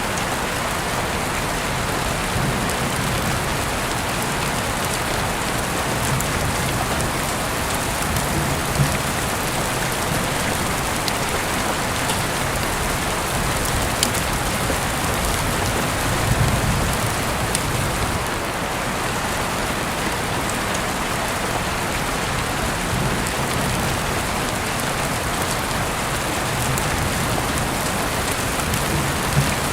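Heavy rain falling in a steady, dense hiss, with a few sharper drop ticks standing out now and then.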